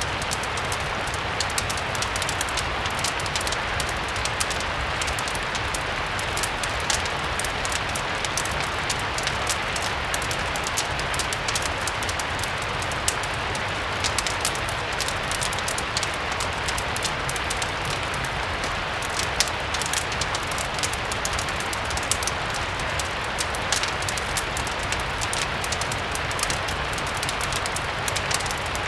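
Steady rain with fireplace crackle mixed in: an even rain hiss with many small sharp pops scattered over it and a steady low rumble underneath.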